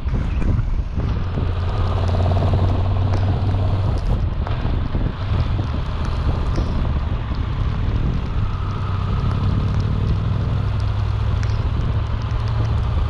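Motorcycle on the move: the Triumph Tiger 1200's three-cylinder engine running steadily, buried in wind noise buffeting the microphone.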